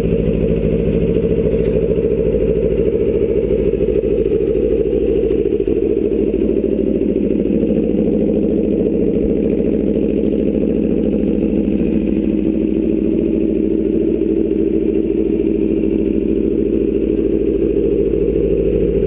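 2016 Aprilia RSV4 RR's V4 engine idling steadily, running on its own just after its first start following a rebuild.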